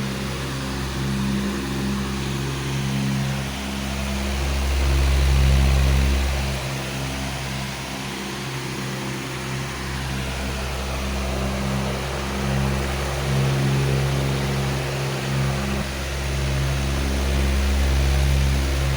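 Powerful electric fan running: a steady rush of air over a low motor hum, slowly swelling and easing in loudness.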